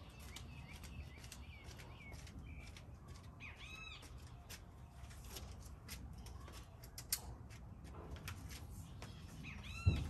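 Faint outdoor bird calls: a few short arched chirps, with one cluster about three and a half seconds in and another near the end, over a low steady background noise. A single sharp tick sounds about seven seconds in.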